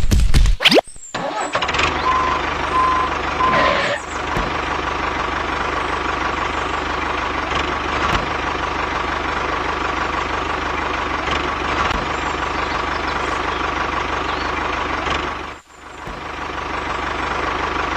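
An engine running steadily, starting up about a second in. Near the end it briefly drops out and then picks up again.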